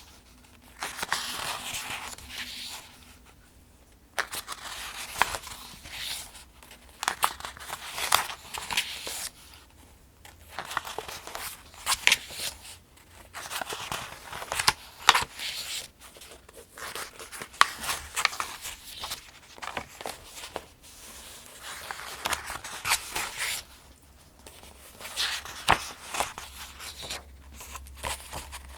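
Pages of the Farmers' Almanac, a paper book, being turned one after another: a papery swish with crisp crackles every few seconds, with short pauses between turns.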